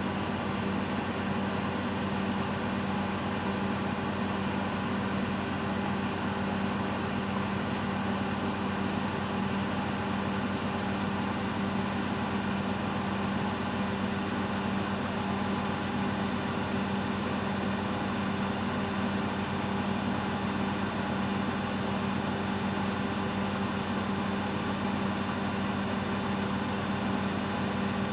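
Miele Novotronic W822 washing machine in its final spin, drum and motor running at a steady high speed with a constant hum and whir.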